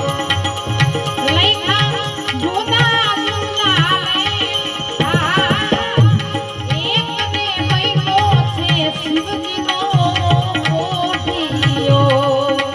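Santvani bhajan music: a hand drum keeps a steady rhythm under held drone notes and a wavering, ornamented melody line.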